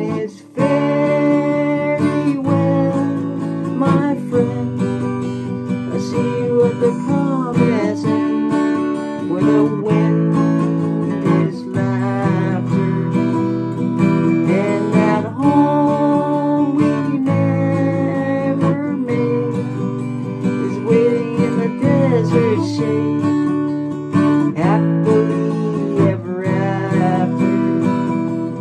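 Acoustic guitar strummed steadily through an instrumental passage, with a melody line above it that bends up and down in pitch.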